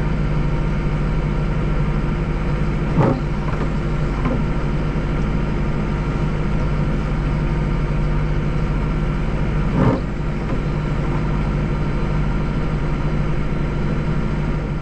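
Deutz 5120G tractor engine running steadily with a low drone, with two short knocks about three and ten seconds in as the tractor jolts over bumps under its heavy front-mounted snowblower.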